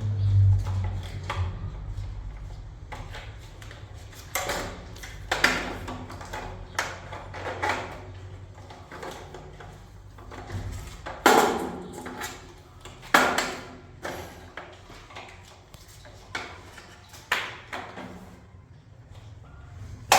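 A dozen or so irregular sharp knocks and clinks of hard objects being handled, some ringing briefly, with a low hum in the first couple of seconds.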